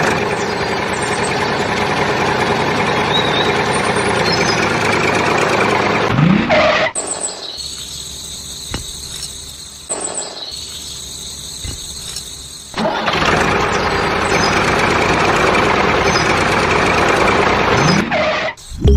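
Small motor of a DIY miniature model tractor whirring. It drops to a quieter, thinner whine about seven seconds in and comes back louder about six seconds later.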